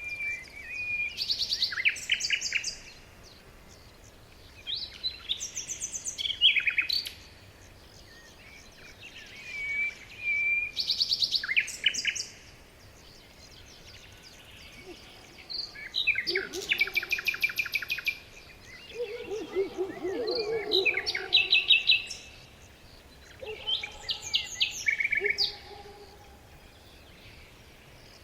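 Songbirds singing in repeated phrases of fast trills and chirps, each a couple of seconds long with short pauses between them. A lower call joins in about two-thirds of the way through.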